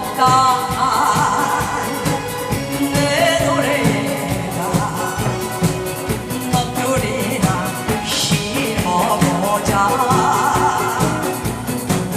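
A singer performing a Korean trot song live over an amplified backing track with a steady beat.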